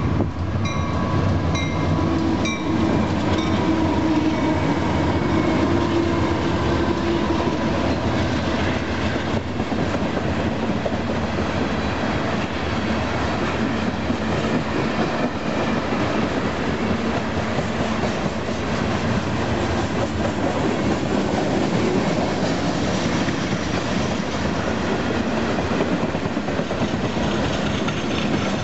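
Union Pacific freight train passing. Its diesel locomotives go by at the start, then a long string of loaded open-top freight cars rolls past, wheels clicking steadily over the rail joints.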